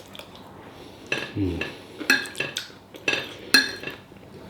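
Metal cutlery clinking and scraping against a plate, several sharp ringing clinks about a second apart.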